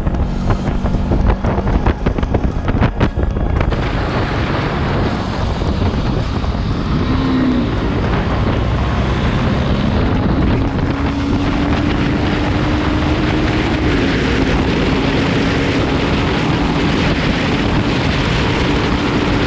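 Motorcycle being ridden at speed: wind buffeting the microphone and road noise, with a steady engine note that rises slightly about ten seconds in.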